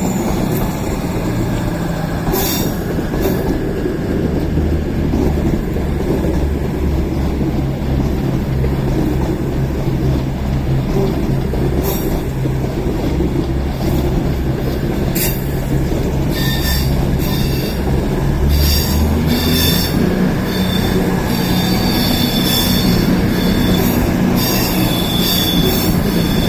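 Pair of Class 221 Super Voyager diesel-electric units pulling away, their underfloor diesel engines running with a steady low drone, with a few sharp clicks from the wheels on the track. From about sixteen seconds in, high-pitched wheel squeal comes and goes as the cars roll past.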